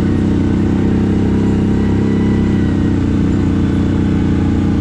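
CFMoto 1000 ATV's V-twin engine running steadily at low riding speed.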